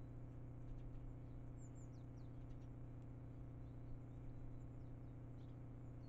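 Faint, thin high chirps of small birds, a few short calls scattered through, over a steady low hum.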